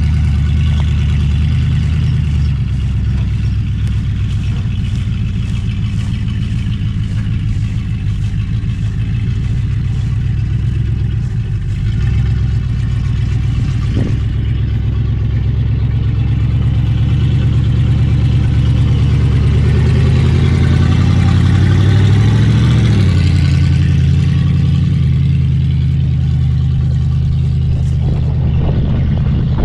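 1980 Jeep J10 truck's engine running as the truck drives, still untuned and fed from a makeshift paint thinner can for fuel. It gets louder and rises in pitch past the middle, then drops back.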